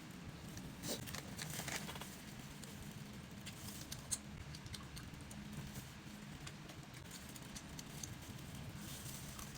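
A person eating noodles: chewing with scattered soft, wet clicks and smacks, a few stronger ones about a second in.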